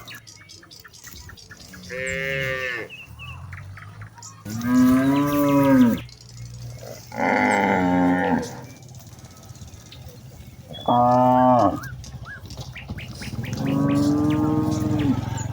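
Cows mooing: five long, drawn-out calls a couple of seconds apart, differing in pitch.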